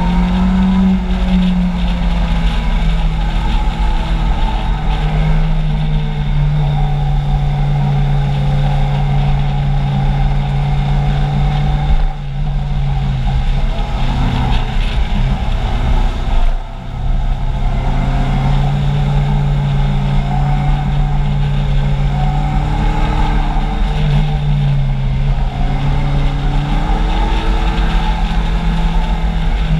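Kawasaki Z750's inline-four engine running under steady throttle at road speed, its pitch stepping up and down a few times and dipping briefly twice near the middle. Wind rushes over the bike-mounted camera's microphone.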